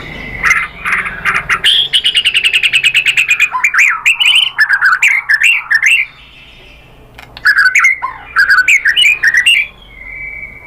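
White-rumped shama singing: a fast trill of rapidly repeated notes, then varied sweeping phrases, a short pause about six seconds in, and a further burst of phrases.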